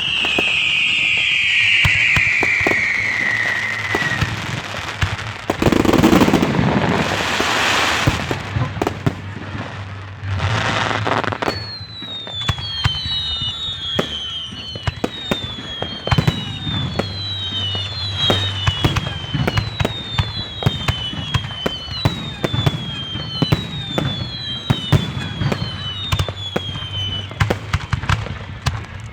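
Fireworks finale: a long whistle falling in pitch, a big burst about six seconds in, then from about twelve seconds a rapid run of overlapping whistles, each gliding downward, over constant bangs and crackles.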